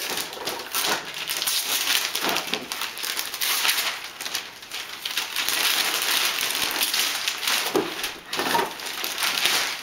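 Gift packaging being torn open and crumpled by hand: a long stretch of dense crackling and rustling.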